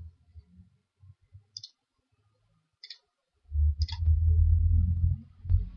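Three sharp computer-mouse clicks, a little over a second apart. Over the last click comes a low rumble that lasts about two seconds and is the loudest sound.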